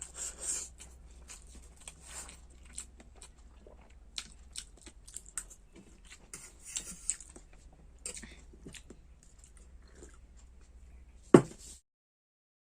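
A person chewing and eating masala Maggi instant noodles, with irregular wet mouth clicks and smacks. A single sharp knock about eleven seconds in, then the sound cuts off abruptly.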